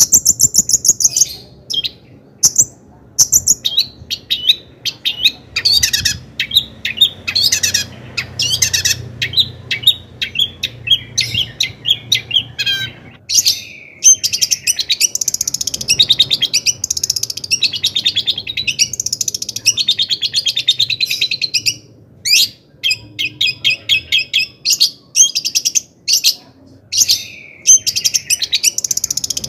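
Long-tailed shrike (cendet) singing a loud, varied song of quick chirps, rattling trills and short sweeping whistles, with only brief pauses.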